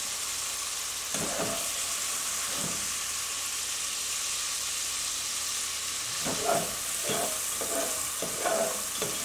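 Browned sausage and its grease sizzling steadily in a nonstick pot, with a utensil scraping the pot several times, mostly in the second half, as the meat is scooped out.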